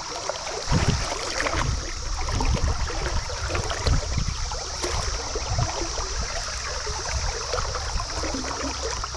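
Stream water running steadily, with low thumps and splashy rumbles in the first half, over a steady high-pitched drone.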